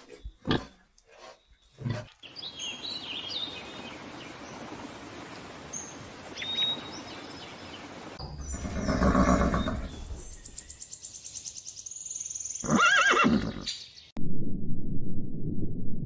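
Short pig grunts for the first two seconds, then an outdoor background with a few faint bird chirps and a louder swell about halfway through. Near the end a horse neighs once, followed by a loud, low rumbling noise.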